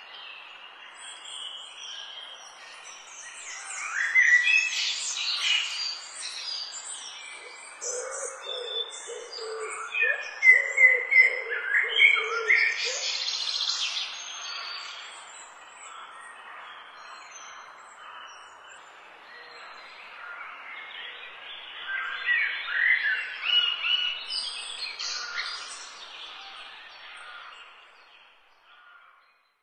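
Small birds chirping and singing, several short quick calls and trills overlapping, coming in busier bursts and dying away just before the end.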